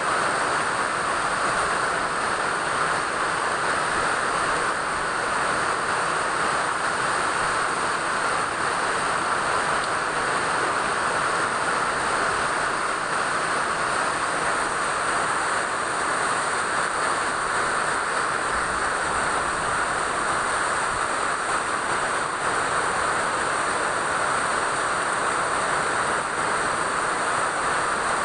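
Steady rain falling, a continuous even hiss with no let-up or change.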